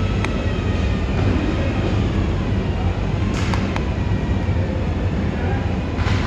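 A steady, loud low rumble of a running vehicle, with a few short faint clicks about three and a half seconds in and again near the end.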